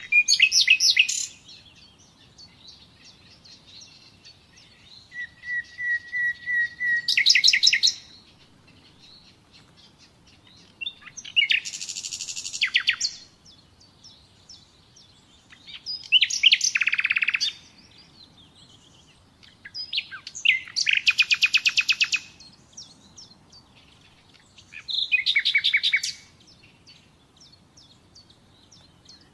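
Common nightingale singing: six short phrases of rapid repeated notes and trills with pauses of a few seconds between them, one phrase opening with a long steady whistle that breaks into a fast run of notes.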